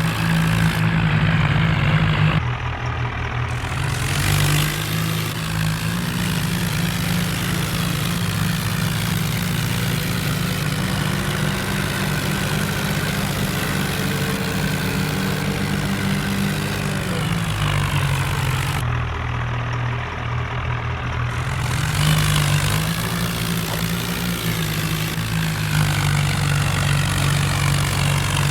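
Diesel tractor engines running hard under load, as tractors pull against each other in a tug-of-war. The engine note dips lower about two-thirds of the way through and picks back up a few seconds later.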